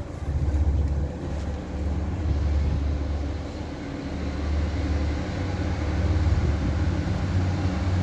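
Northern Ireland Railways diesel multiple unit going past a level crossing: a steady, deep engine rumble with a hum above it that lasts the whole time.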